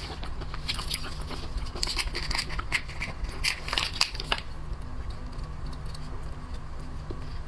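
Crab shell being cracked and pulled apart, a run of sharp crackling, crunching clicks for about four seconds, then only a low steady hum.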